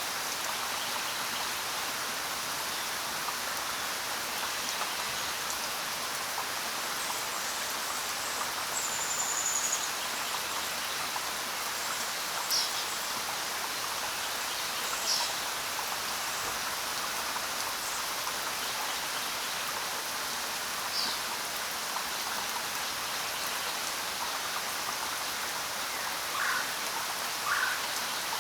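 Steady rain falling, with a few short bird chirps and one brief whistle breaking through it now and then.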